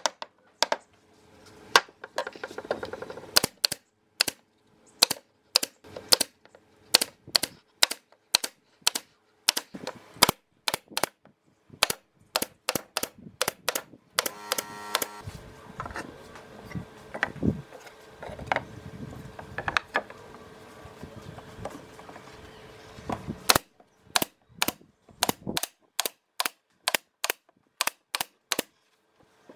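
Series of sharp knocks from work on wooden boards, coming irregularly about one to two a second. A brief pitched sound is heard about halfway through, and a faint steady hum runs under the knocks for several seconds after it.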